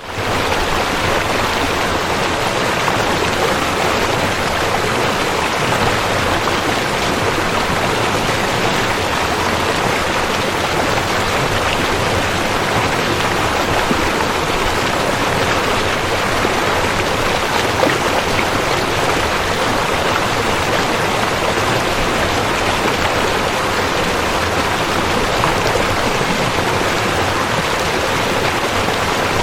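A river flowing: a steady, even rush of water, coming in abruptly at the very start and holding unchanged throughout.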